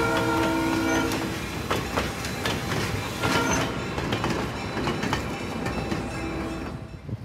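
Diesel locomotive air horn sounding a chord that cuts off about a second in, then the train rolling past with rumble and repeated wheel clicks over rail joints.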